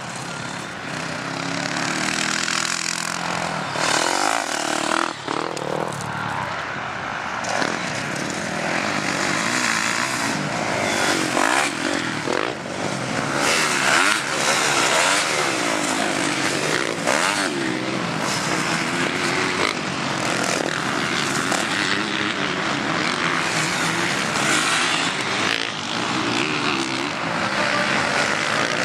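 Motocross bikes racing on a dirt track, their engines revving up and down over and over, with the pitch sweeping repeatedly as the riders open and close the throttle.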